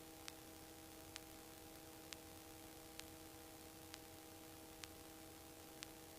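Near silence: a faint steady electrical hum with a soft tick about once a second.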